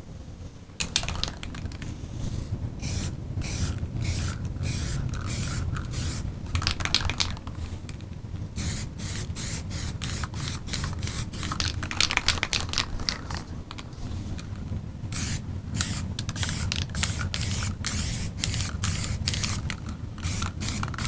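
Aerosol spray-paint can fitted with a calligraphy cap, sprayed in many short bursts of hiss with brief gaps between them, starting about a second in, misting a soft frosted layer onto a canvas.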